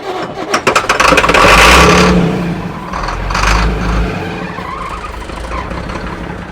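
Ford truck engine cranking briefly on the starter, then firing and revving hard with the throttle held wide open, surging a second time and then winding down near the end.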